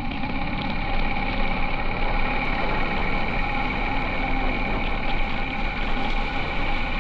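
Honda H'ness CB350's single-cylinder engine running steadily.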